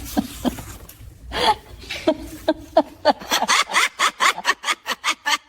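Laughter: short repeated 'ha' sounds that quicken near the end into a fast, even cackle of about five or six a second.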